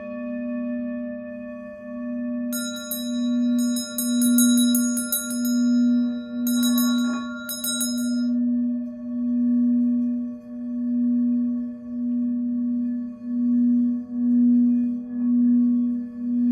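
A singing bowl sounding a steady, humming tone that swells and fades about once a second. From about two and a half seconds in to about eight, a run of bright, high metallic chime strikes rings over it, some in quick clusters.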